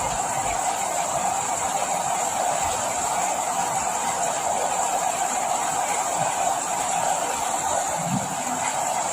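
Steady rainfall, an even hiss that doesn't let up.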